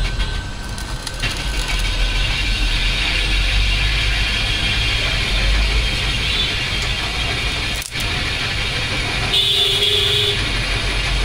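Mechanical clatter and ratcheting of workshop work over a steady low rumble, with a brief steady tone about nine seconds in.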